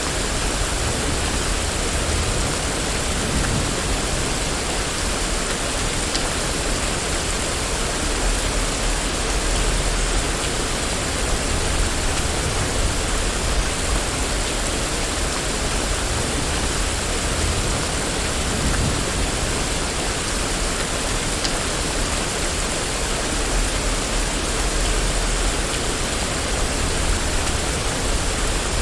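Steady rain falling on a street, an even hiss with a few faint ticks and a low rumble at times.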